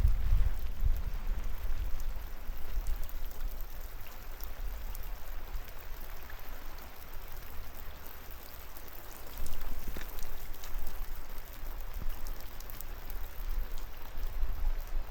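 Steady rain falling on the forest and stone paths, with individual drops landing close by. A low rumble runs underneath, strongest near the start.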